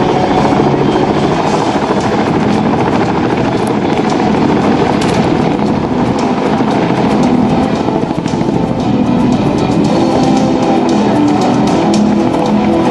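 Military helicopters running continuously, mixed with loud music.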